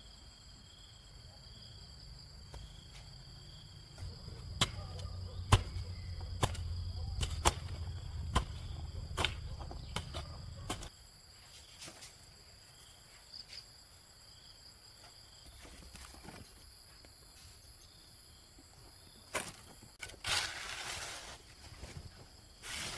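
Insects, crickets among them, calling steadily in several high tones. A run of sharp knocks over a low rumble comes between about four and eleven seconds in, and a short burst of rushing noise comes near the end.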